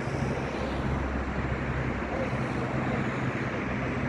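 Steady low drone of a cargo ship's engine, with an even rush of wind and water noise over it.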